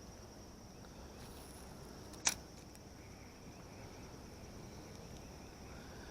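Faint outdoor ambience with a steady, high-pitched drone of crickets, and a single sharp click a little over two seconds in.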